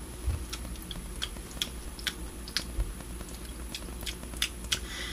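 A person chewing a bite of soft chocolate-filled croissant with the mouth closed: scattered small irregular mouth clicks.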